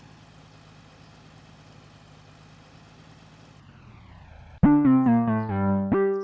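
A tractor's engine hums faintly and steadily. About four and a half seconds in, a much louder electronic keyboard-like tune of quick stepped notes cuts in for about a second and a half, then stops.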